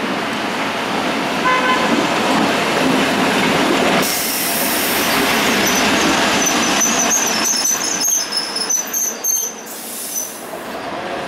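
Vintage Geneva tram set (Be 4/4 motor car 729 with trailer B 308) running on its rails, with a short toot about a second and a half in. The wheels squeal high-pitched from about six to nine and a half seconds in.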